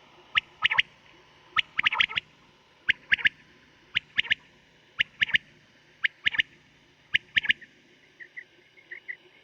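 Recorded quail calls played as a hunting lure: short clipped phrases of two or three quick notes, repeating about once a second. Near the end, softer, quicker chirps take over.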